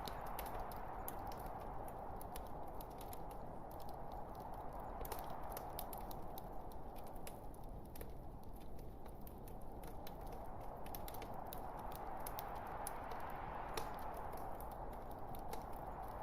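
Wood fire burning in a fireplace: many small, irregular crackles and pops over a steady hiss of the burning logs.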